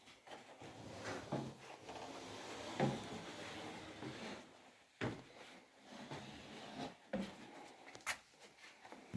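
A few sharp wooden knocks and a stretch of rubbing in a small room, like things being moved and handled.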